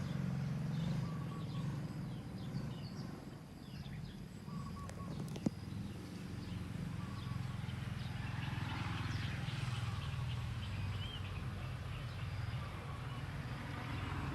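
Outdoor ambience: a low steady hum with small bird chirps over it, and a single sharp click about five seconds in.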